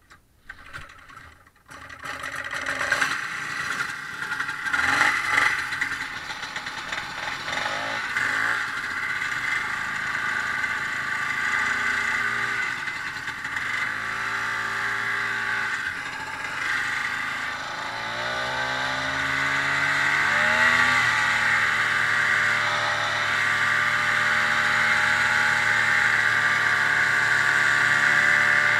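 Ski-Doo snowmobile engine running as the machine pulls away about two seconds in, then revving up and down with the throttle while riding.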